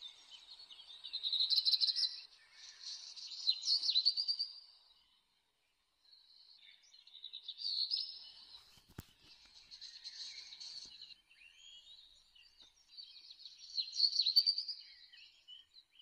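Small birds singing: bursts of rapid high chirps and trills, each lasting a second or two, with short pauses between.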